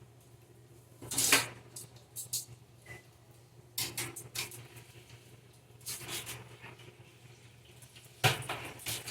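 Dishes and cutlery clattering in a kitchen: several separate knocks and clinks, the loudest about a second in and another near the end, over a low steady hum.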